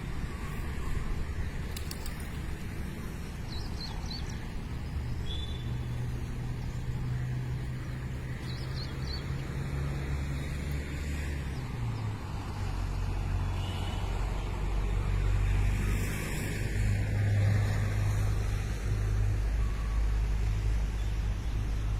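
Steady low engine hum of road traffic, its pitch shifting partway through, with a few short high bird chirps above it.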